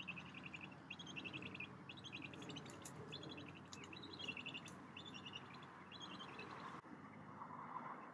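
Birds calling: short, high, rapid chattering trills, one after another every half second or so, over a steady low background rumble.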